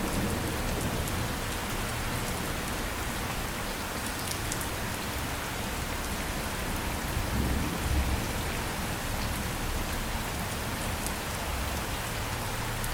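Steady rain falling, an even hiss with scattered drop ticks, and a brief low rumble about eight seconds in.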